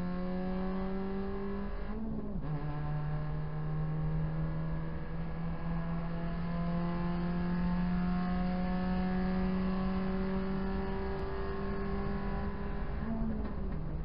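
Proton Saga BLM race car's 1.6-litre four-cylinder engine, heard from inside the cabin under full throttle. The engine note climbs slowly, with a gear change about two seconds in and another near the end, where the pitch drops and then starts climbing again, over steady road and tyre noise.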